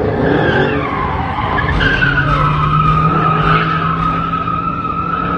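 Car tyres squealing as a car spins its wheels, with the engine running hard underneath. The squeal wavers at first, then settles into one long steady screech from about two seconds in.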